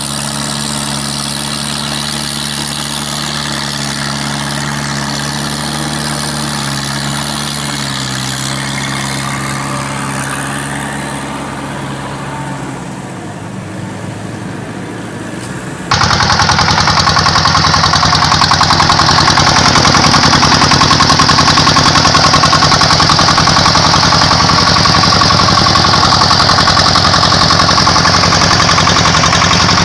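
Two-wheel walking tractor's small diesel engine running steadily at an even pitch. About halfway through it gives way abruptly to a much louder, fast-pulsing engine rattle that runs on.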